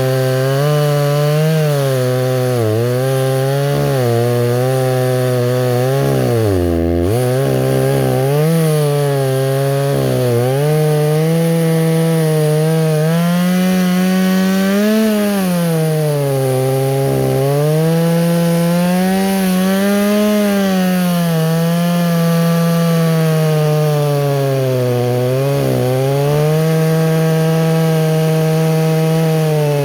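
Two-stroke petrol chainsaw running at high revs while cutting wood, its engine pitch sagging and recovering as the chain loads up in the cut. About seven seconds in the engine speed drops sharply and briefly before climbing back.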